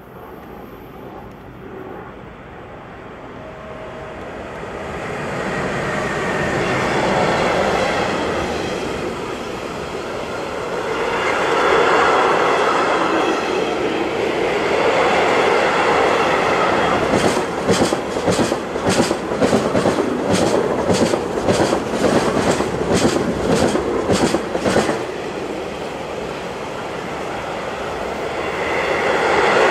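Freight train of container and tank wagons rolling past, a steady rumble of wheels on rails that builds up over the first few seconds. From about halfway through, the wheels clatter rhythmically over the points for several seconds, about two to three clicks a second, before the rumble goes on alone.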